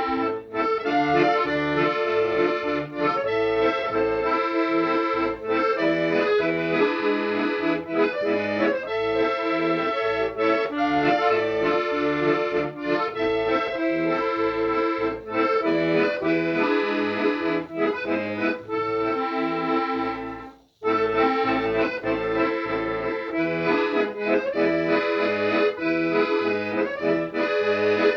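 Accordion music: a melody over chords and a bass line, with a brief break about twenty seconds in before the playing resumes.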